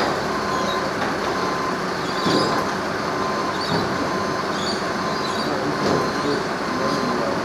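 Narrow-gauge sugar-cane train running on its rails, a steady rumble, with a repeating high beep about once a second over it.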